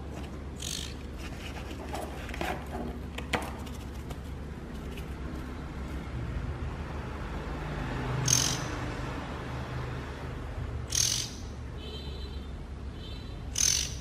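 Oriental magpie-robin fledgling giving four short, high, scratchy calls a few seconds apart, with a few fainter chirps near the end. A steady low hum runs underneath, and there are a few handling rustles and a click about three seconds in.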